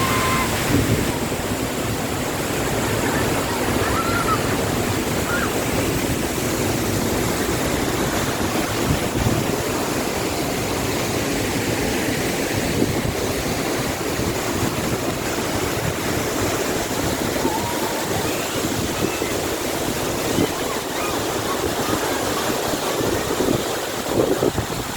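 Tall, wide waterfall: water falling and crashing in a steady, even rush, with a few faint short chirps over it.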